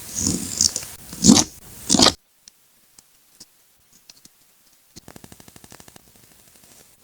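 Close-up paper-craft handling sounds: a couple of seconds of rubbing and scraping of paper with a few sharp crinkles, then scattered small clicks and, near the end, a fast even run of tiny ticks.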